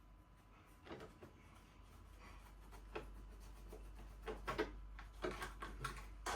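Irregular handling noise from small objects: taps, knocks and rubbing, sparse at first, busier in the second half and loudest near the end.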